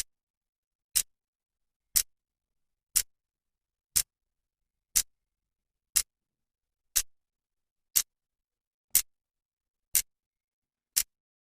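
A clock's second hand ticking once a second, each tick a short sharp click with silence between.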